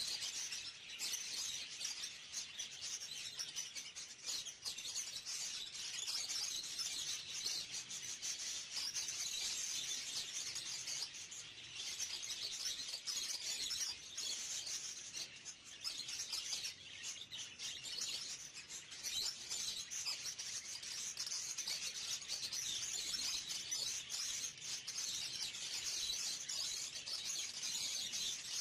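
Dense, unbroken chorus of many small caged birds chirping and twittering at once, high-pitched.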